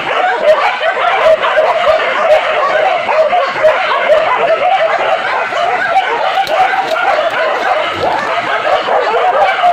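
A pack of village hunting dogs barking and yelping without pause, many voices overlapping into one dense chorus, as they fight a wild boar.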